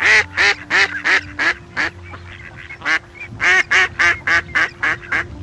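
Duck quacking over and over: a quick run of about five loud quacks, a couple of spaced single quacks, then another quick run of about seven.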